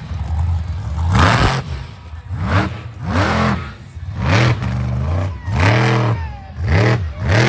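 Monster truck engine revved hard in repeated blips, about six, each rising and falling in pitch.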